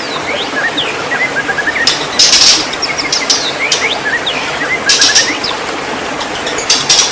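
White-rumped shama singing: quick runs of short rising and falling whistles, broken every two to three seconds by loud harsh notes, over a steady hiss.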